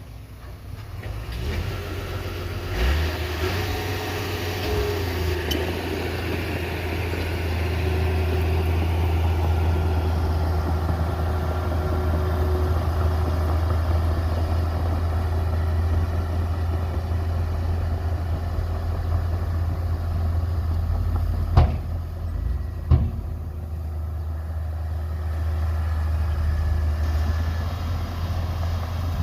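Diesel engine of heavy earthmoving machinery running steadily with a deep drone that builds up in the first couple of seconds. Two sharp knocks come about a second apart near the three-quarter mark.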